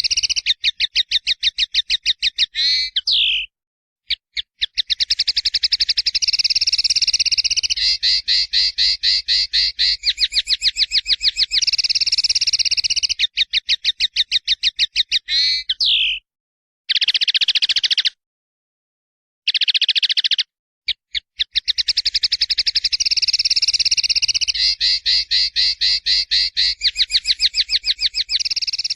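Songbird singing long, very fast, high-pitched trills of rapidly repeated notes, broken by a few short pauses.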